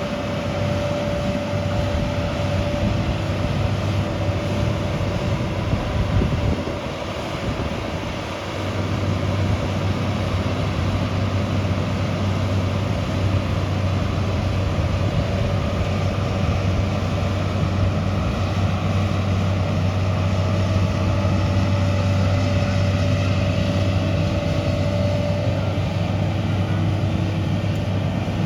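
Heavy construction machine's diesel engine running steadily. It dips briefly about seven seconds in, then settles into a stronger, steady low drone.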